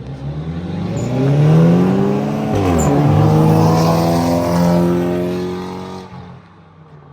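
Car engines accelerating hard in a street race, pitch climbing steeply, with a gear shift about two and a half seconds in before climbing again; the sound holds high and loud, then fades away about six seconds in.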